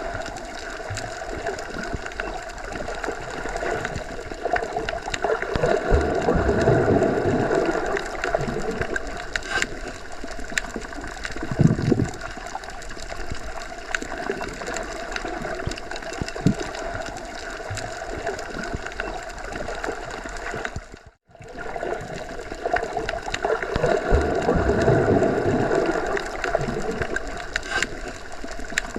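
Muffled underwater ambience: a steady rush of water with slow swells and low gurgles. It cuts out for a moment about 21 seconds in, and then the same pattern starts again.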